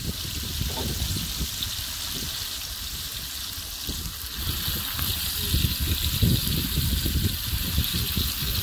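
Chopped tomato, onion and meat frying in oil in a pot, a steady sizzle, over an uneven low rumble.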